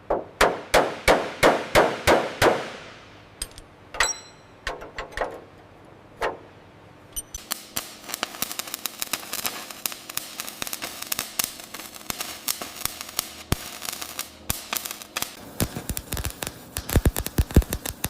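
Metal striking metal: first a run of evenly spaced clanks about three a second, then a few ringing clinks. After that comes a long stretch of fast, dense clatter, which turns into rapid heavy strikes near the end.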